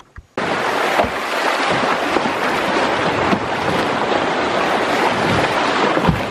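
Canoe running through river rapids: a loud, even rush of white water that starts abruptly about half a second in, with a couple of low thumps.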